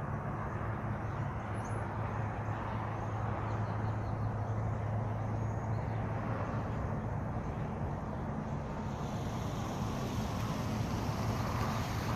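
A steady low machine hum over an even outdoor noise, with a few faint high bird chirps in the first half.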